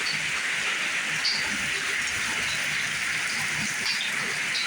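Heavy rain falling in a steady hiss during a storm, with a few faint ticks of drops striking.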